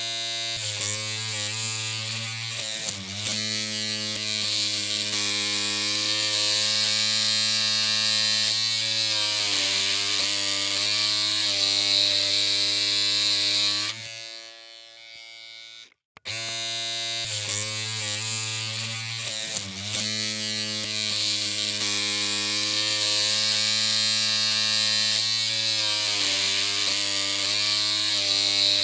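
Electric hair clippers running with a steady buzzing hum, cutting off about halfway through and switching back on some two seconds later.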